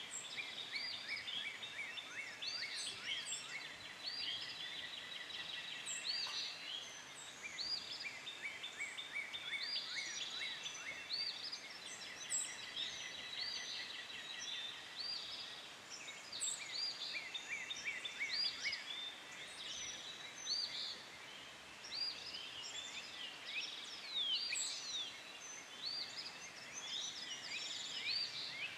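A chorus of several songbirds singing and calling at once: many short chirps and quick trilled series overlapping throughout, over faint outdoor background noise.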